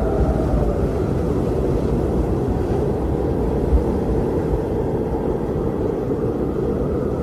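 Strong wind blowing steadily in a deep, low rush, with a faint whistle fading in the first second and a brief low buffet a little under four seconds in.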